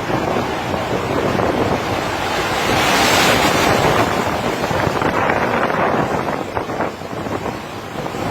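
Storm seas washing over a ship's stern, with gale wind buffeting the microphone: a continuous rushing of water and wind that swells to its loudest about three seconds in.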